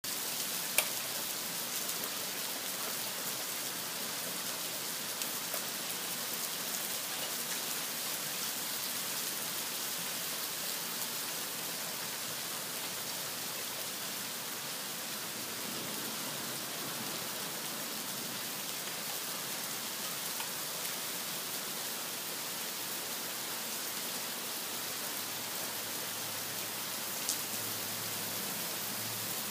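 Rain falling steadily, an even hiss throughout, with a sharp click about a second in and another near the end.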